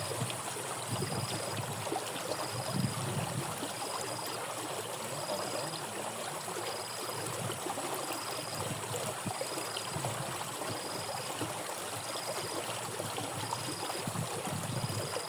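Water running steadily in a rain-swollen drainage ditch, with irregular low sloshes from wading or from the net in the water. A faint high tone pulses evenly through it, a little more than once a second.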